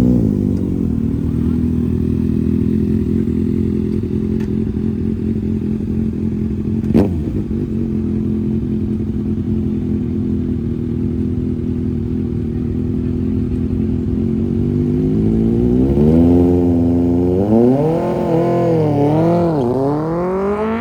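Drag-race car engine idling steadily, with one sharp click about seven seconds in. From about three-quarters of the way through it is revved up and down several times, then climbs steadily in pitch near the end as it pulls away.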